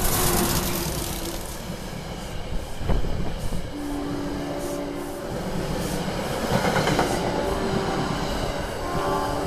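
SEPTA Regional Rail train running past on the rails: a steady wheel-and-rail rumble with a sharp clack about three seconds in. Brief whining tones come around four seconds in and again near the end.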